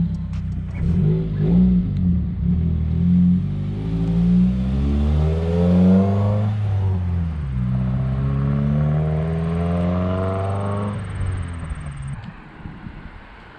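2017 Subaru WRX's turbocharged flat-four, with muffler-deleted exhaust, accelerating hard. The pitch rises steadily, drops sharply at an upshift about six and a half seconds in, then climbs again through the next gear before the driver lifts off and it fades near the end.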